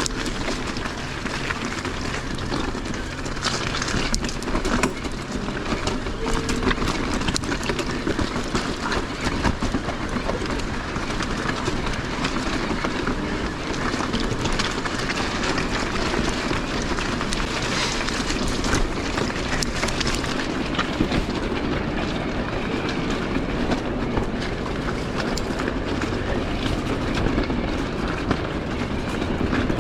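Mountain e-bike riding over a rough, rocky trail: a steady rush of tyre and wind noise with constant rattling clicks and knocks from the bike.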